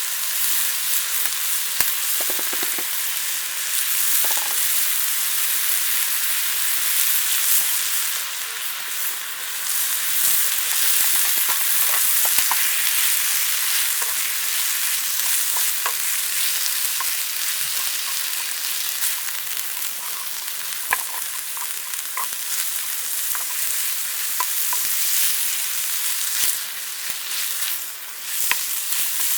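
Food sizzling and frying in a pan, stirred, with small clicks of the utensil against the pan scattered throughout.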